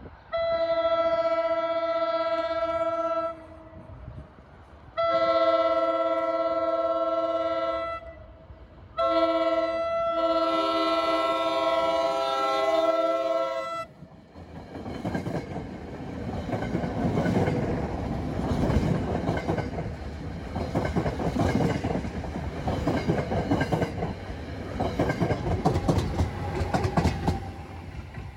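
A New Jersey Transit train's multi-chime horn sounds the grade-crossing signal: long, long, short, long. The train then passes close by, rumbling, its wheels clicking over the rail joints.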